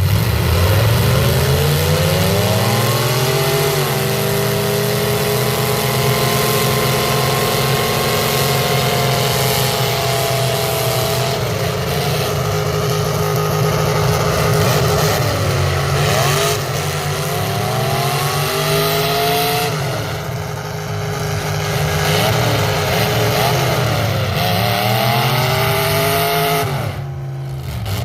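Demolition derby car engine doing a burnout, its tyres spinning. The revs climb and are held high, dip and rise again several times around the middle, and come down near the end.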